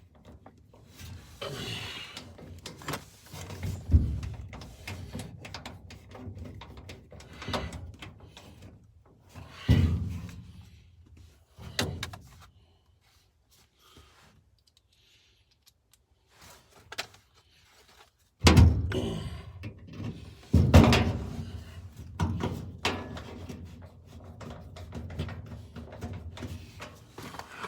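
Irregular knocks and thumps with handling and scraping noises from work on an old gas furnace. There is a quiet stretch just before the halfway point, and the two loudest thumps come soon after it.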